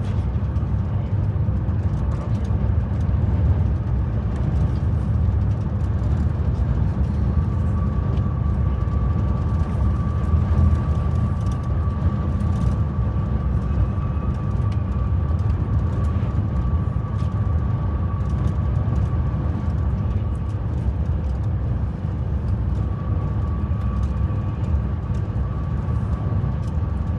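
Passenger train running at speed, heard from on board: a steady low rumble of wheels on track. A thin, steady whine joins in about a quarter of the way through, fades, and returns near the end.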